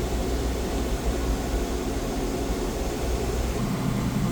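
Dometic Penguin II 13.5 rooftop air conditioner running with its fan on high and the ceiling dump vent open: a steady rush of air over a low hum, reading about 71–72 dB inside. Near the end the pitch of the hum shifts as the second rooftop AC starts up.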